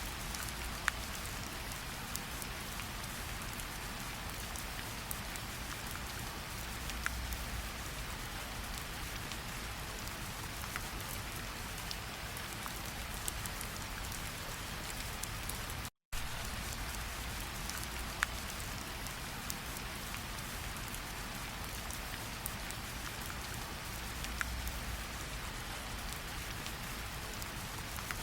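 Steady rain falling on leaves and water, with individual drops ticking sharply every second or so over an even hiss. The sound cuts out completely for an instant about halfway through and resumes.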